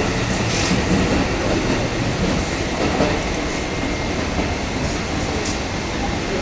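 JR 211 series electric multiple unit running on the rails: a steady rumble of wheels and running gear, with a few faint clicks over the rail joints.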